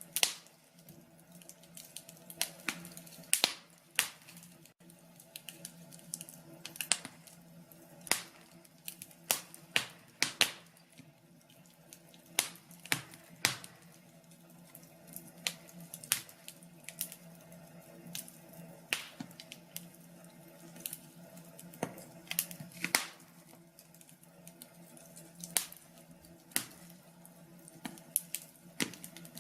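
Wood fire in a fireplace crackling, with sharp irregular pops and snaps at uneven intervals over a faint steady low hum.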